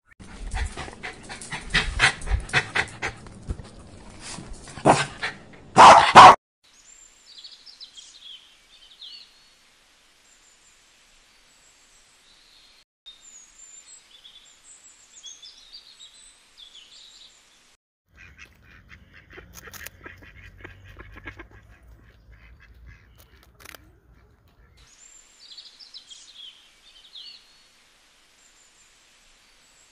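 A dog barking repeatedly and loudly for about the first six seconds. After that comes faint high chirping of birds, broken by a stretch of low rumbling with rapid clicking.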